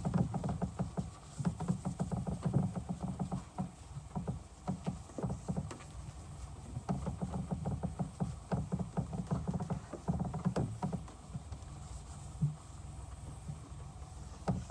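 Cloth rag buffing coating onto a plastic headlight lens: a run of short, irregular rubbing strokes over a steady low rumble.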